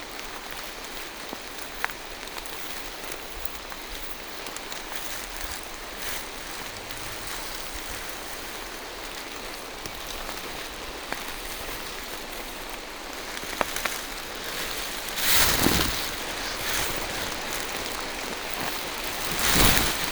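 Steady rain falling in a forest, with a few single sharp drips. Near the end come two louder rushes of noise, each about a second long.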